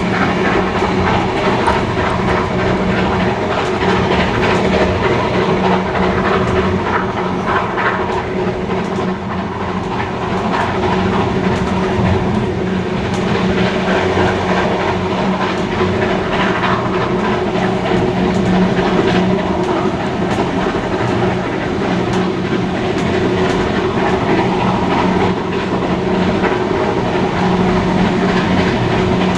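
Train hauled by steam locomotives 3265 and 3526 running steadily along the line, a constant rumble with wheels clattering over the rails.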